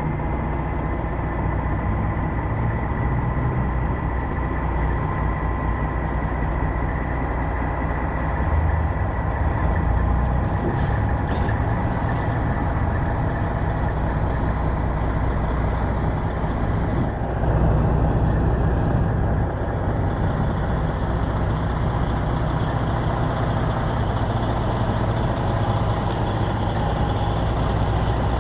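Semi truck's diesel engine running at a steady, even drone throughout.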